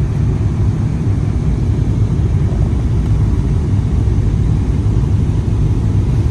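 Steady low cabin noise of a Boeing 777-300ER: its engines and the airflow heard from a passenger seat, unchanging throughout.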